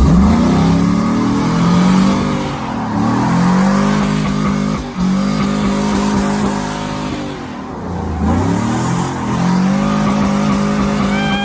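A vehicle engine revving hard several times in a row: its note climbs and holds high, then falls away about two and a half, five and eight seconds in before climbing again.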